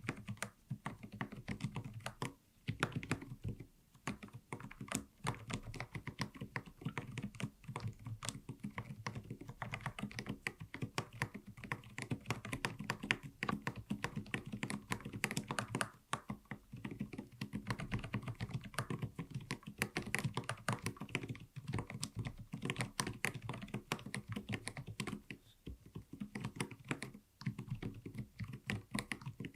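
mStone mechanical keyboard being typed on steadily, many keystrokes a second, with short pauses about 2.5, 16 and 26 seconds in.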